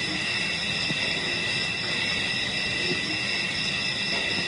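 Steady chorus of night insects in the bush: several high, even tones held without a break over a faint low background hiss.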